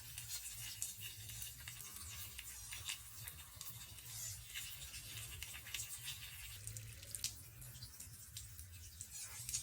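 Water dripping and spattering in many small irregular drops, a faint crackling trickle over a low steady hum, as in a rain-style water scalp massage.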